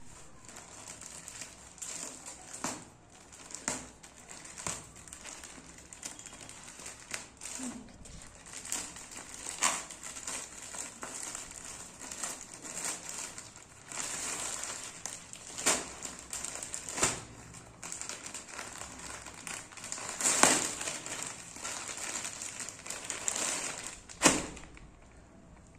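Plastic packaging of a clothing parcel being handled and opened, crinkling and rustling irregularly with sharp crackles. There are louder snaps near the end.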